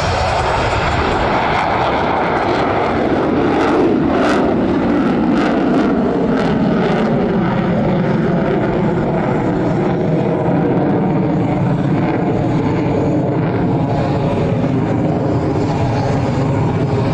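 F-22 Raptor's twin Pratt & Whitney F119 turbofans at maximum power, a loud jet roar that drops in pitch as the fighter passes, with a ragged crackle about four seconds in.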